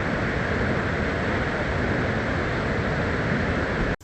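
Waterfall rushing: a loud, steady roar of falling water that cuts off abruptly near the end.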